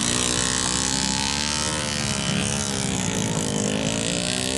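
Motorcycle engine running under load, its pitch rising and falling as the rider works the throttle, with a steady high hiss over it.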